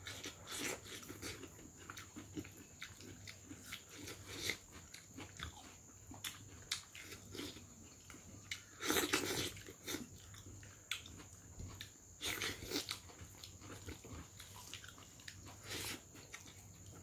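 Close-up mouth sounds of a person eating by hand: wet chewing and lip-smacking with scattered crisp crunches, loudest about nine seconds in and again around twelve to thirteen seconds.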